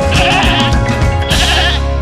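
Two bleating animal cries, each about half a second long, over background music with a steady beat.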